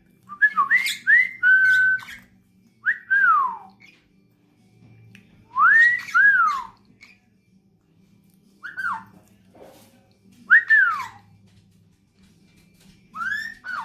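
Dusky pionus parrot whistling: short, clear whistles that rise and then slide down, coming in little groups with pauses in between.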